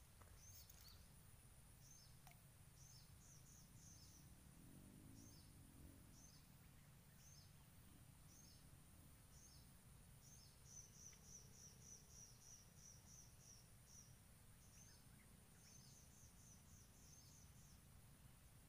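Near silence, with a small bird's faint high chirps repeating about once a second, breaking into a quick run of chirps about eleven seconds in, over a low rumble.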